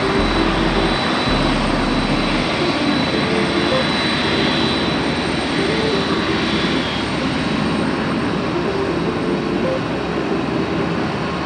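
Jet airliner engines running with a loud, steady roar and a thin high whine, easing off slightly toward the end.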